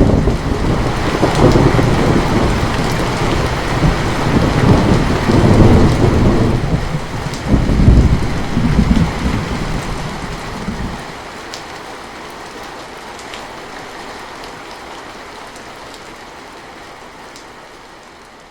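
Heavy rain with a thunderclap that breaks in suddenly at the start and rolls in several low waves for about ten seconds before dying away, leaving steady rain that slowly fades.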